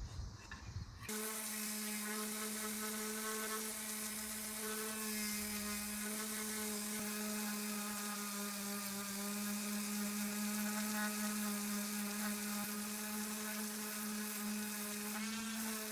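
Electric sander running steadily with an even motor whine as it sands down wood with coarse then fine sandpaper; the whine breaks off briefly in the first second, then carries on.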